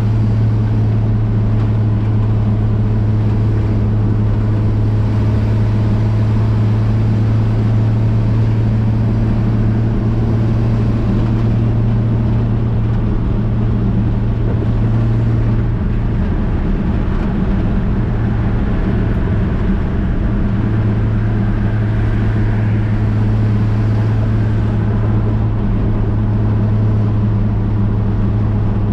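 1965 Chevrolet C10 pickup's inline-six engine running while driving, heard from inside the cab as a steady low drone with road noise. The drone wavers briefly about halfway through.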